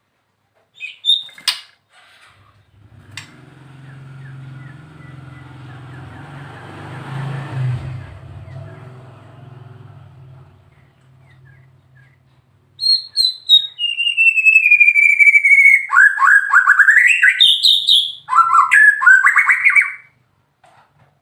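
White-rumped shama (murai batu) singing: a short call about a second in, then, after a pause, a loud run of clear whistles, a long falling glide and fast rising trilled phrases over the last several seconds. A low steady hum sits under the middle part.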